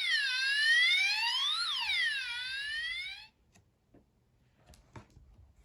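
Police car siren sound effect from a children's sound book, wailing up and down in pitch, one rise and fall about every two seconds, and cutting off about three seconds in. A few faint clicks follow.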